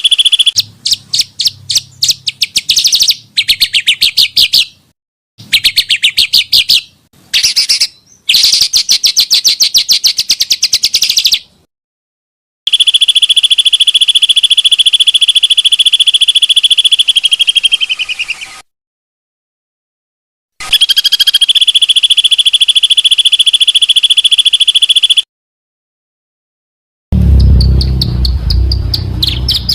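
Small songbirds singing: fast series of sharp chirps, then long unbroken high trills, spliced together with sudden silent gaps between clips. Near the end another clip starts with a low rumble under high chirping.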